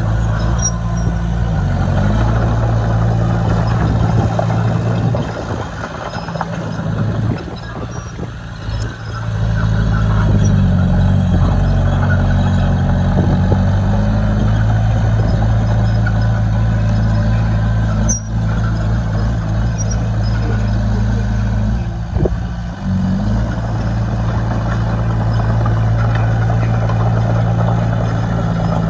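Heavy construction machine's diesel engine running steadily under work, its note shifting briefly three times as the revs change, with one sharp click about two-thirds of the way through.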